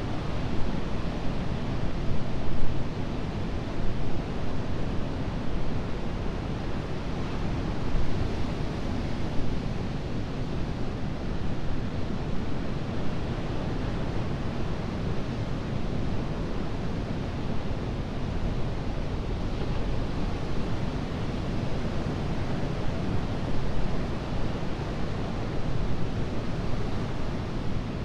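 Ocean surf washing ashore in a steady rush, swelling slightly every few seconds, with wind buffeting the microphone.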